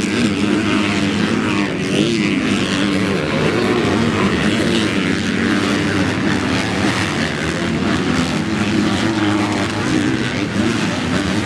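Motorcycle engine running steadily while riding, its pitch wavering slightly, under a constant rush of wind and road noise.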